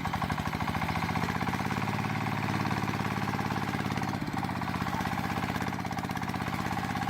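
The homemade mini tractor's small engine running steadily with a fast, even chugging, dipping briefly about four seconds in.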